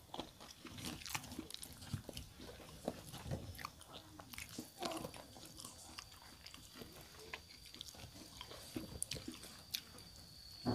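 Close-miked chewing and crunching of a meal eaten by hand, with irregular small clicks and smacks of the mouth.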